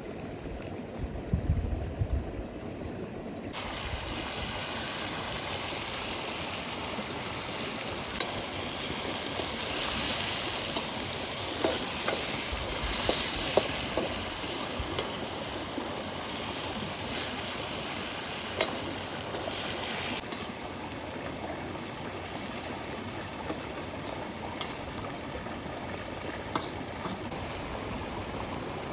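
Food frying in hot oil in a pan over a campfire: a loud sizzle starts suddenly a few seconds in, with scattered clicks and scrapes of stirring, and drops away abruptly about two-thirds of the way through, leaving the steady rush of a flowing river. A few low thumps near the start.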